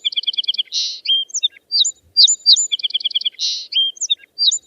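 Sparrow song: high chirps, a quick trill of evenly spaced notes and a short buzzy note, the phrase repeating about every two and a half seconds.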